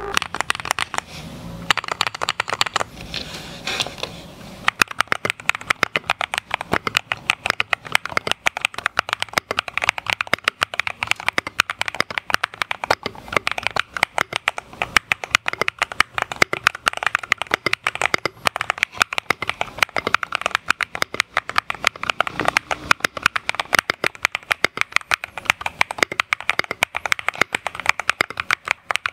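Akko YU01 mechanical keyboard being typed on fast, a dense run of clacking keystrokes. It is softer for the first few seconds, then the keystrokes come quick and steady.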